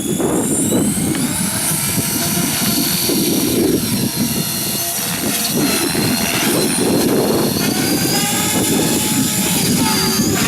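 Electric 500-size RC helicopter in flight: a high motor and rotor whine that rises in pitch about a second in and then holds steady, over a gusty low rumble.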